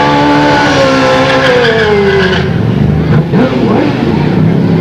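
Motorcycle engines running loud as bikes ride past; one bike's engine note falls in pitch as it goes by over the first two seconds or so, and more engines follow.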